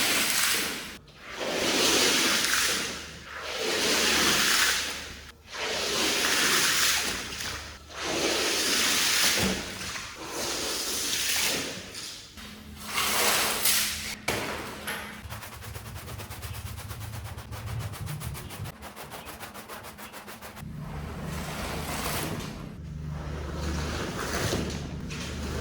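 Water spraying onto a mud-soaked carpet in sweeping passes, each swelling and fading about every two seconds. After that comes a fast rattling, then a steady low machine hum sets in.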